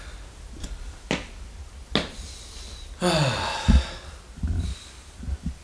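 A few sharp clicks, then about three seconds in a falling, creaking sound lasting about a second with a low thump, followed by softer knocks.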